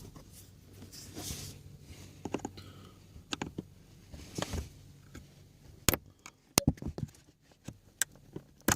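Hands working under a car's dashboard: scattered sharp clicks and knocks with light rustling, loudest in a cluster about six seconds in and once more near the end.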